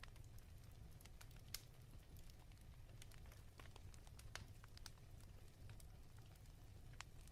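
Fireplace fire crackling faintly: irregular small pops and snaps over a steady low rumble.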